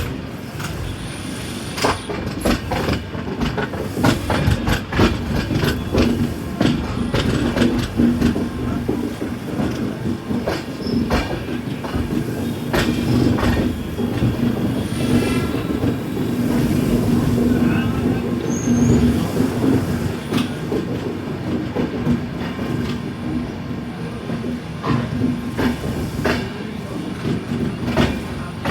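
A passenger train of the Ganga–Sutlej Express running along the track: a steady rumbling drone with frequent sharp clacks of the wheels over the rail joints. About halfway through there is a brief higher squeal, likely from the wheels.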